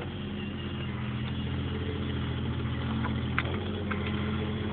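Caterpillar mini excavator's diesel engine running steadily, with two short clicks near the end.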